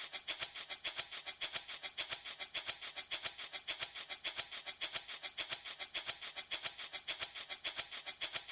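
Handmade baby rattle shaken steadily in a fast, even rhythm of several crisp rattling strokes a second.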